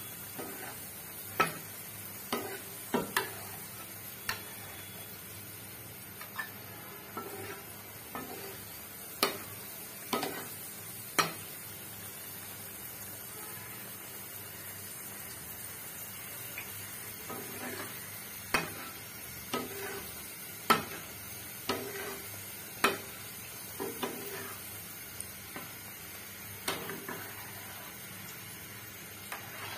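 Mughlai paratha deep-frying in hot oil in a pan, a steady sizzle. A metal spatula clinks against the pan in short scattered clusters as oil is splashed over the paratha.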